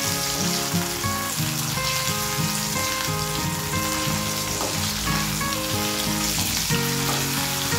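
Pabda (butterfish) shallow-frying in mustard oil in a pan, sizzling steadily, while a wooden spatula moves and turns the fish. Background music with held notes plays over the sizzle.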